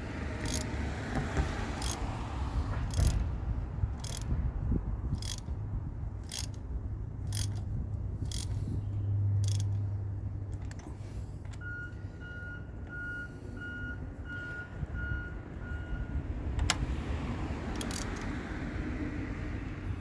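A series of sharp clicks, about one a second, then a run of about eight short electronic beeps, evenly spaced, over a low steady rumble.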